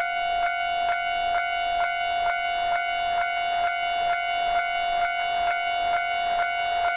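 Electronic railway level crossing warning bell ringing steadily, about two strikes a second.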